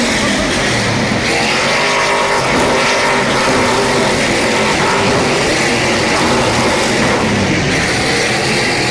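Stadium Super Trucks' V8 race engines running hard at racing speed, revs rising and falling as the trucks go by.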